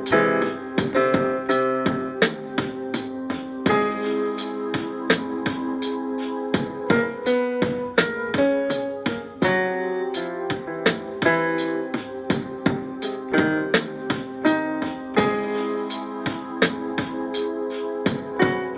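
A beat playing from an Akai MPC Live's stock sounds: sustained electric-piano-like keyboard chords over a steady run of sharp percussive ticks, about four a second.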